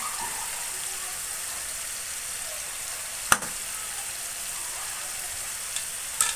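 Ground chili and garlic spice paste with shrimp paste sizzling steadily as it fries in a pan, cooking until fragrant. A spatula knocks sharply against the pan once about halfway through and again near the end.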